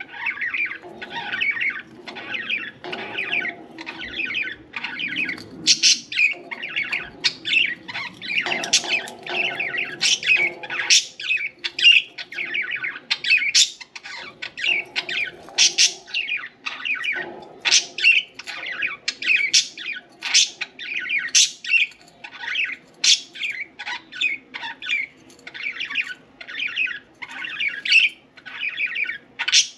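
Pet budgerigars chirping and chattering without pause, a dense stream of short warbling calls with frequent sharper squawks mixed in.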